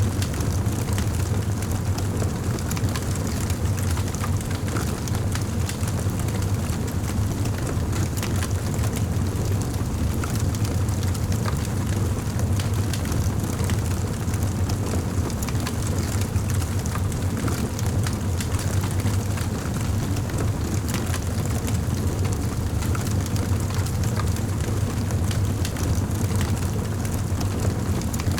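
Wood fire burning in a fireplace, with steady crackling and small pops over a constant low rumble of the flames.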